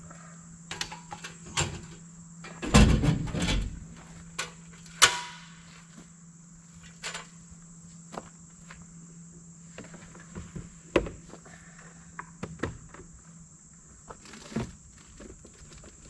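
Knocks, clicks and thuds of camping gear being handled and doors or compartments of a truck opening and closing, with a heavy thud about three seconds in and a sharp knock about two seconds later. A steady high insect drone runs underneath.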